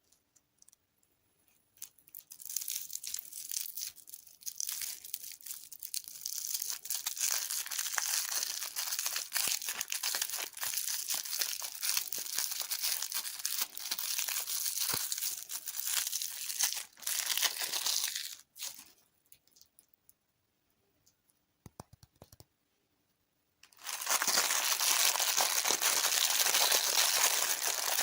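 Plastic wrapper crinkling and tearing, in two long stretches separated by a brief pause with a few clicks; the second stretch is louder.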